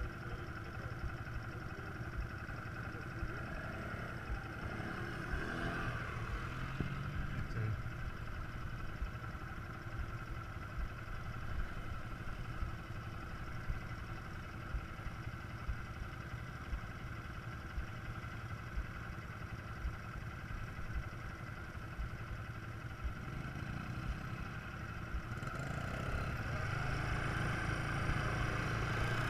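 Quad bike engine running steadily at low revs, growing louder near the end as it revs up or comes closer.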